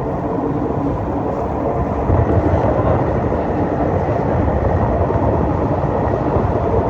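Tour boat's engine running steadily, a constant low drone that grows a little louder about two seconds in.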